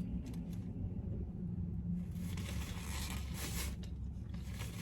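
Steady low hum inside a car, with faint soft rustling sounds in the middle.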